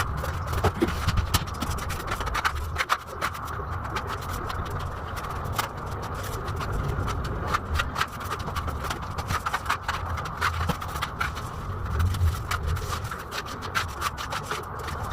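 Putty knife scraping wet putty across a wall, with many short scrapes and clicks of the blade over a steady low hum.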